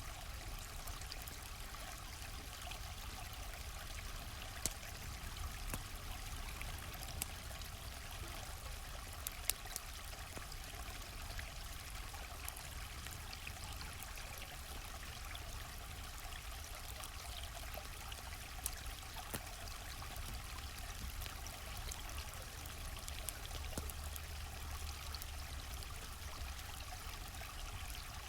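A small stream flowing steadily, with scattered sharp pops and crackles from a wood campfire, one of the loudest about nine seconds in.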